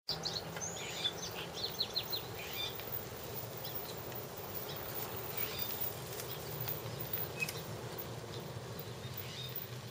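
Small birds chirping over a steady low outdoor hum. The chirps are busiest in the first three seconds, with a few scattered ones later.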